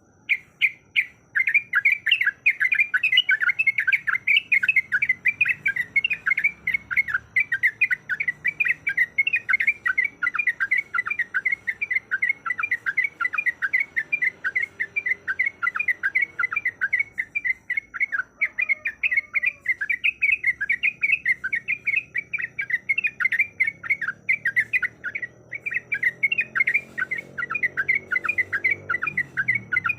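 Yellow-vented bulbul (trucuk) singing a long rolling run of quick chattering notes, several a second, with only brief breaks. This is the persistent 'ropel' song used as a lure to call in other bulbuls.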